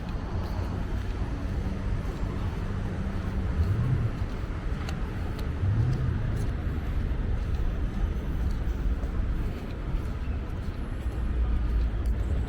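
City road traffic: a steady low rumble of car engines and tyres, swelling as vehicles pass about four and six seconds in.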